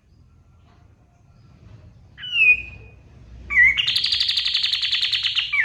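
A kapas tembak songbird singing. A single sliding whistled note comes about two seconds in, then a loud, rapid, even trill starts a little later and carries on to the end, broken by a short whistle near the end.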